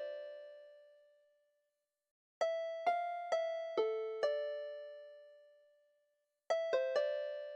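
A slow melody on a piano-like keyboard instrument, each note struck once and left to ring and fade. A phrase dies away at the start, a run of five notes begins about two and a half seconds in, and three quick notes come near the end.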